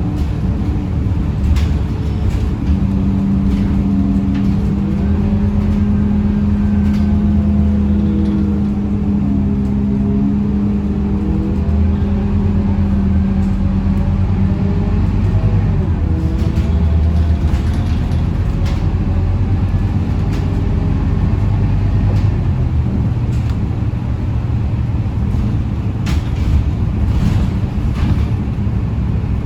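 Scania K230UB city bus's diesel engine and drivetrain running, heard from inside the passenger cabin. The pitch rises and falls in the middle as the bus changes speed, over a steady low rumble, with scattered light rattles.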